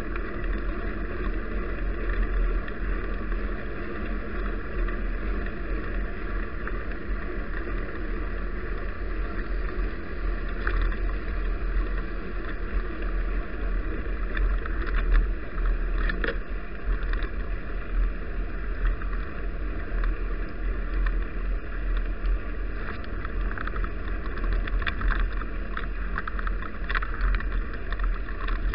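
Steady wind and road rumble on an action camera's microphone while riding a bicycle, with scattered clicks and rattles.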